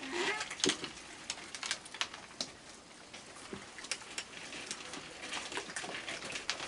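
Raccoons feeding close by: a scatter of irregular light clicks and ticks from chewing and scrabbling, with a brief pitched squeak or chirr right at the start.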